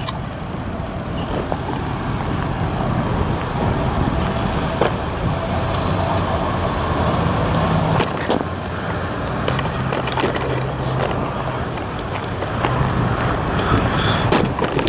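Freight train rolling past: a steady rumble of wheels on rail with a few sharp clacks.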